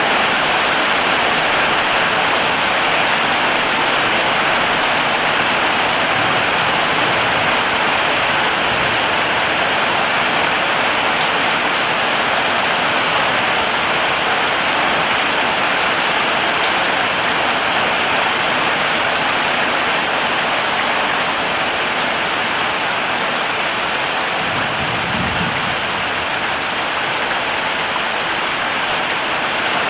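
Heavy rain falling steadily, an even hiss of dense drops, with a brief faint low rumble near the end.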